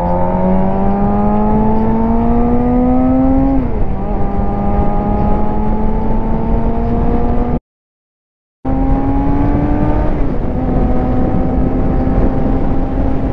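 Suzuki GSX-R 750 inline-four engine pulling under throttle, its pitch climbing slowly, dropping sharply on an upshift a little before four seconds in, then climbing again and settling steady after a brief dip just past ten seconds, with a steady rush of wind. The sound cuts out completely for about a second midway.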